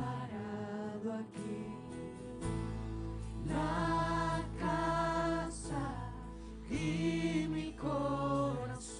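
Christian worship music: a voice sings long, wavering notes with vibrato over an accompaniment, and a steady low bass note comes in about two and a half seconds in.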